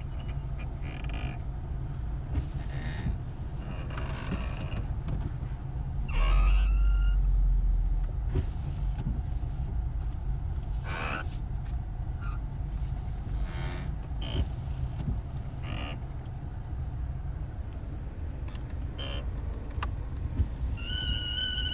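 Opel Astra H heater air-distribution flap squeaking as the airflow direction control is turned, in short creaks every second or few, over a steady low hum. A louder low rumble comes about six seconds in, and a sustained pitched squeal or tone starts near the end.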